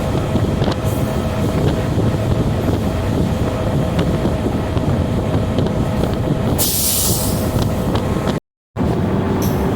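DEMU (diesel electric multiple unit) train running, a steady loud rumble of the wheels and underfloor diesel with a faint steady hum. A burst of hiss comes about seven seconds in, and the sound cuts out for a moment near the end.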